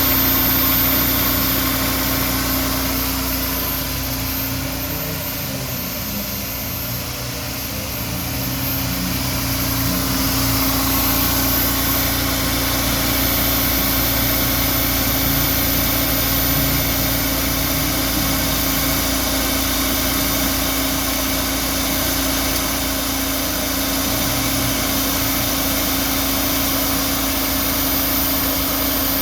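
Honda S2000's 2.0-litre F20C four-cylinder engine idling steadily. It eases off slightly about five to eight seconds in, then settles back.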